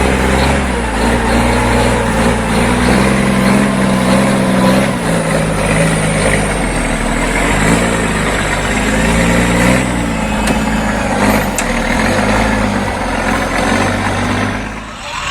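Heavy logging truck's diesel engine running under load on a steep, rough climb, its pitch shifting up and down several times as it labours.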